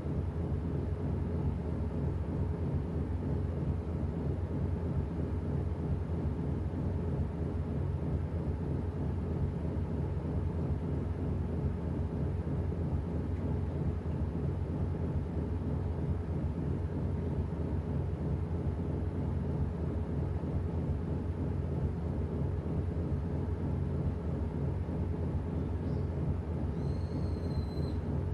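Washing machine running with a steady low hum that does not change. A brief high tone sounds near the end.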